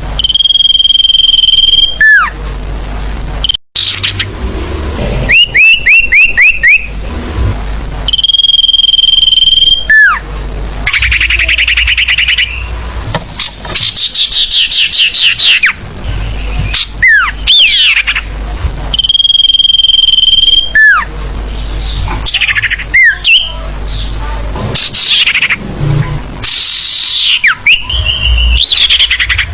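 Sirfu bird song played as a lure call, very loud. It alternates long steady whistles that drop sharply at the end, quick runs of short rising chirps, and fast trills and falling sweeps.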